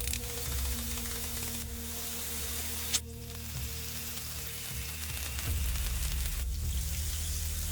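Meat and food sizzling on a grill over charcoal, a steady hiss that shifts abruptly a few times, with faint low music underneath.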